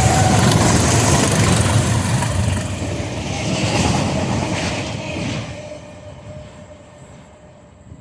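A train passing through at high speed, with loud rumbling wheel and rail noise. The noise fades steadily over the last few seconds as the train draws away.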